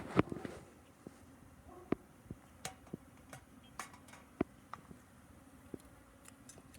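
Scattered light clicks and taps, with one sharper knock just after the start, over faint background noise.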